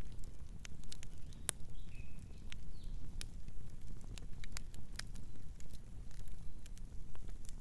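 Wood fire burning, with irregular sharp crackles and pops over a low steady rumble of the flames. A couple of brief faint bird chirps come in about two seconds in.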